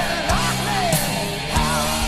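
1980s heavy metal song in an instrumental passage: a bending, wavering lead melody over drums and bass, with regular drum hits.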